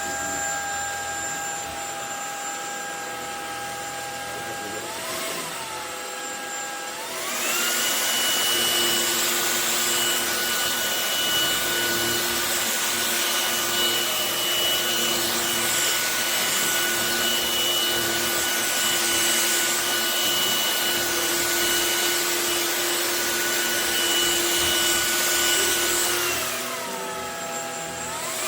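MONSGA cordless stick vacuum's brushless motor running with a steady whine and airflow hiss. About seven seconds in it glides up to a higher, louder setting and holds there. Near the end it drops back down, then rises again.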